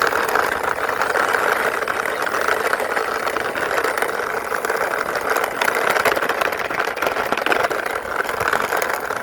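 Toy ambulance pushed along by hand, with a steady engine-like running noise that carries on unbroken.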